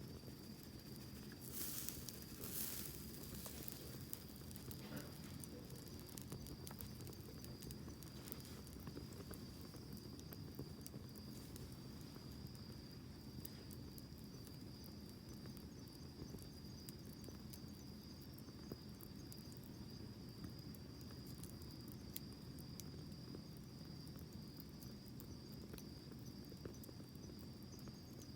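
Small wood fire burning quietly, with scattered faint crackles over a low hiss of flame and a brief louder hiss about two seconds in. A steady high-pitched insect trill runs underneath.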